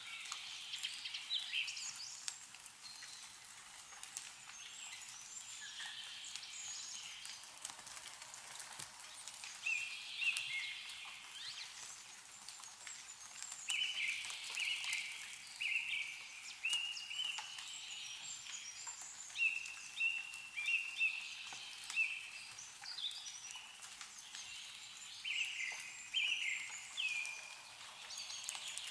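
Songbirds calling and singing, with runs of short repeated notes, over faint scattered drips of snowmelt falling from trees.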